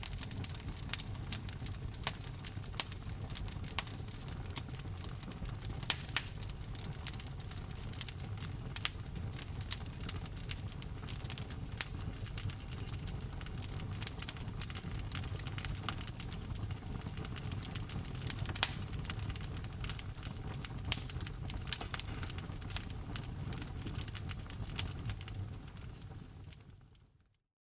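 Wood fire crackling: frequent sharp pops and snaps over a steady low rumble of the burning logs. The sound fades out near the end to a second of silence.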